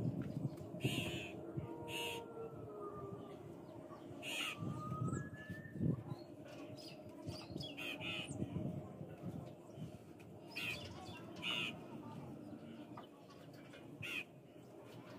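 Crows cawing, single short calls spaced a second or several apart, over a low steady rumble.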